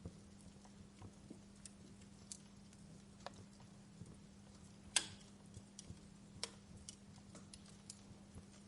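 Wood fire crackling: irregular small pops and snaps from burning logs, with one louder pop about halfway through, over a faint steady low hum.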